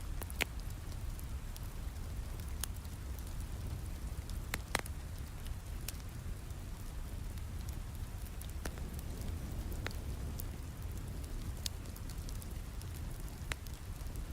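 Steady rain with a low rumble, and the sharp, irregular pops of a crackling wood fire, about a dozen over the stretch.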